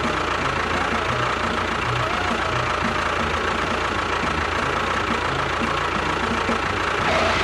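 A motor running steadily, with a constant high whine over a dense mechanical noise.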